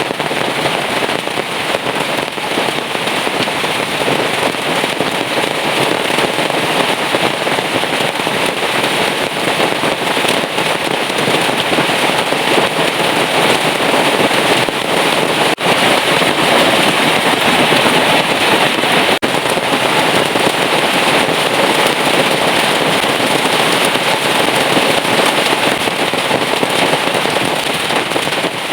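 Heavy rain pouring down in a dense, steady, crackling patter.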